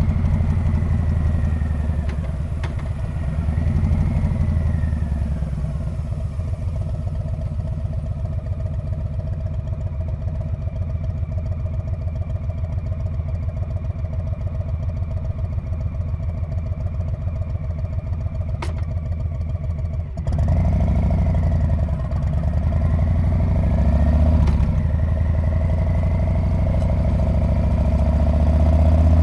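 Harley-Davidson Street Bob's V-twin engine and exhaust: it slows early on and settles into an even, pulsing low idle. About twenty seconds in it gets suddenly louder as the bike pulls away, and the engine note rises toward the end.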